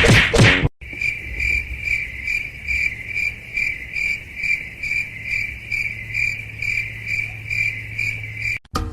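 A cricket chirping: one steady high-pitched trill that pulses about two to three times a second. It starts about a second in, after a brief burst of other sound.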